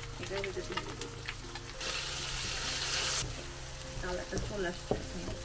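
Onions and ginger-garlic paste frying in hot oil in a wok, stirred with a wooden spatula, with a loud hiss for about a second and a half near the middle.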